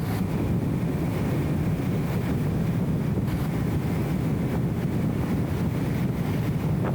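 BMW E34 M5 Touring cruising, its straight-six engine and road noise heard as a steady low rumble, muffled and blurred by the camera's anti-wind audio filter.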